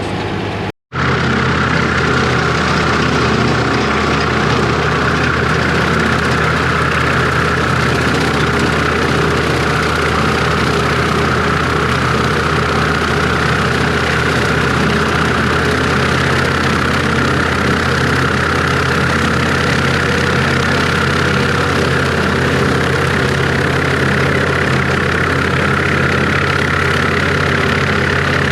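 International Harvester 1086 tractor's six-cylinder turbo diesel running steadily at a constant speed, with a brief break in the sound under a second in.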